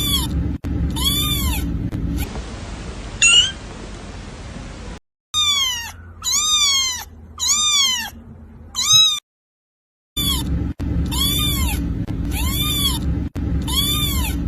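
Kitten meowing over and over: high, arching meows about one every 0.7 seconds, in several runs broken by a short, higher cry and a brief silent gap.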